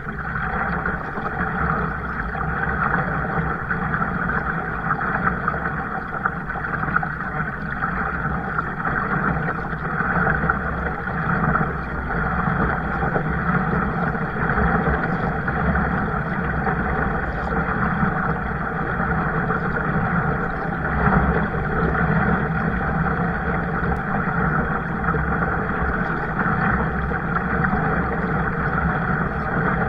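Steady rushing noise of water and wind while out in a kayak, with a low rumble underneath and no distinct strokes or splashes.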